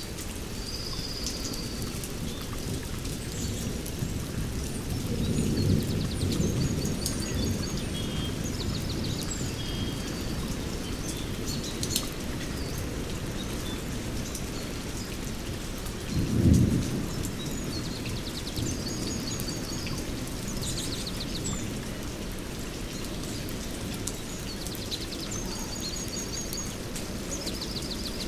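Steady rainforest rain with thunder rumbling low: one swell about five seconds in and a shorter, louder clap about sixteen seconds in. Birds call over it throughout with repeated high chirps and trills.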